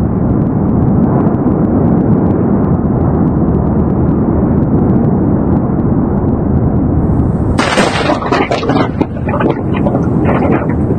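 Loud, steady low rumbling noise, with a harsher, crackling stretch starting about two-thirds of the way through.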